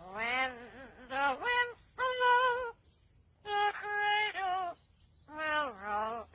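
A bird giving a series of five pitched, voice-like calls, each half a second to a second long, with wavering pitch and short pauses between.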